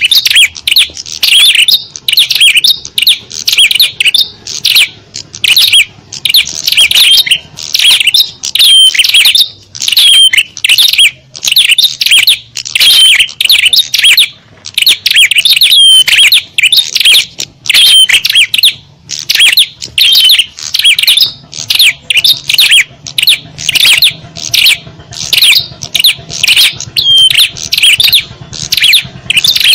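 Small-bird lure call: a dense, loud chatter of many small birds' chirps and short rising and falling notes, in rapid runs broken by brief pauses, the kind of noisy call used to draw wild small birds in.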